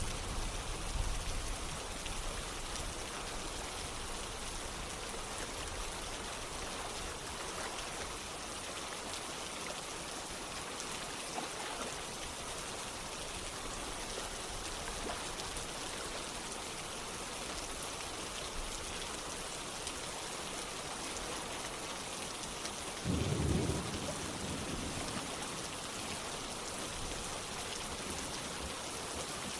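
Steady rain falling, an even hiss throughout, with a low rumble of thunder near the start and a stronger one about three-quarters of the way through.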